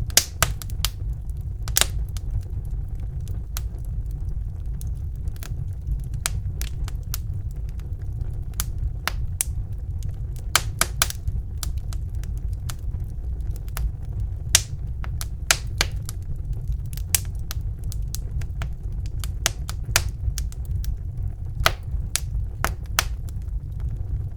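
Wood fire burning in a fireplace: a steady low rumble of the flames with irregular sharp crackles and pops from the burning logs, a few louder ones scattered throughout.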